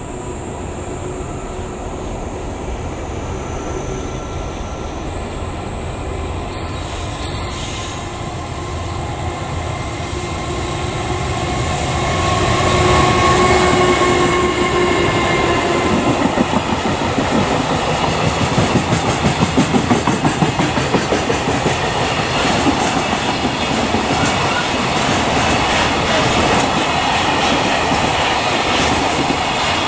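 A long freight train approaching and passing at speed, growing louder until the locomotive goes by with a whine about twelve seconds in. The wagons' wheels then clatter rhythmically over the rail joints for the rest of the time.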